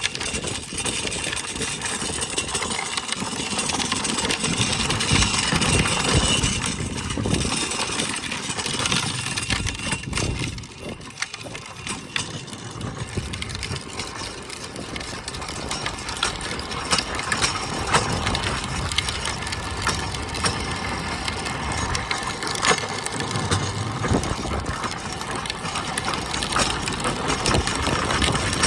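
Wind buffeting the microphone during a ride on a pedal bike, a steady rushing rumble that rises and falls, with small rattles and knocks from the bike.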